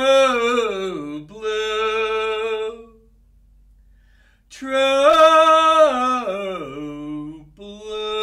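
A man singing alone, unaccompanied, in long held notes. Each phrase slides down in pitch and then holds a steady note. There is a pause of about two seconds between the two phrases.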